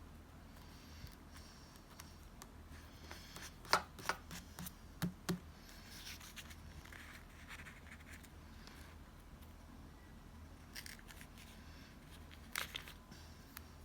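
Scissors snipping paper during journal layout: a quick run of sharp snips about four to five seconds in and another near the end, with soft paper rustling and scraping between them.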